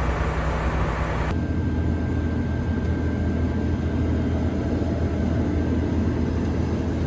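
Steady low engine drone from a combine harvester, with a faint constant whine on top, heard from inside the cab. About a second in, the sound changes abruptly from a denser steady sound to this drone.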